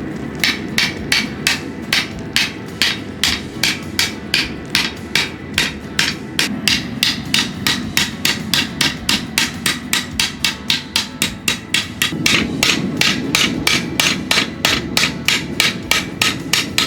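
Hammer striking leaf-spring steel in even blows, about three a second, with a sharp metallic ring on each strike, over a steady low rumble.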